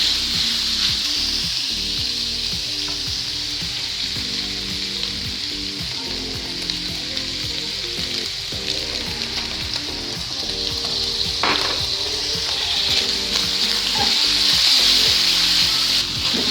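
Food frying and sizzling in hot oil in a pan, a steady sizzle that grows louder over roughly the last three seconds.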